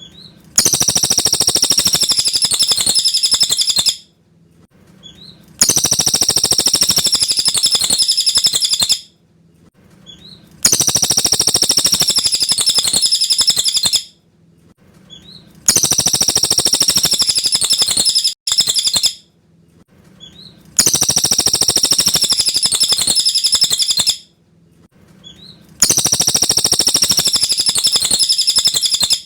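Cililin songbird singing a clear, high, rapid song phrase, repeated six times in a steady cycle: about three and a half seconds of song, then about a second and a half of pause.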